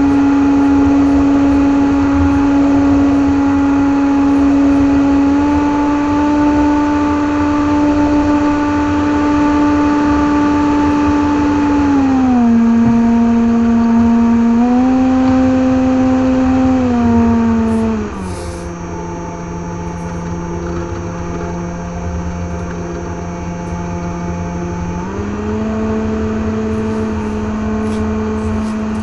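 RC airplane's 2200KV brushless motor spinning a 6x4 propeller, heard from on board: a steady buzzing whine whose pitch steps down and up as the throttle changes. About two-thirds of the way through it drops lower and quieter, then rises again before easing off near the end. Low wind rumble runs under it.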